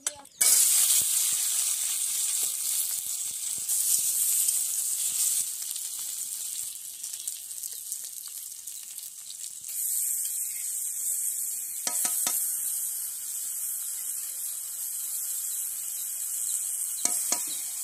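Diced potatoes frying in hot oil in a kadai: a loud sizzle that starts suddenly about half a second in as they go into the oil, then carries on steadily, with a couple of short knocks later on.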